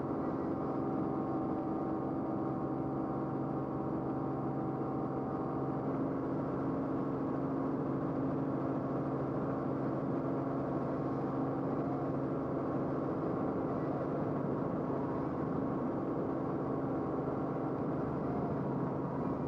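Steady drone of the aircraft's engine and rotor heard from inside the cabin: a constant hum with several steady tones, unchanging throughout.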